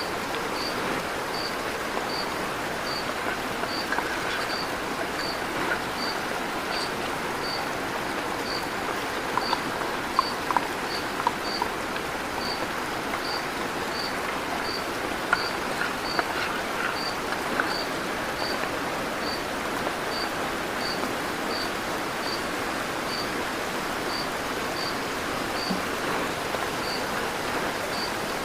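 Steady rush of flowing river water, with an insect chirping in a regular high-pitched pulse about one and a half times a second.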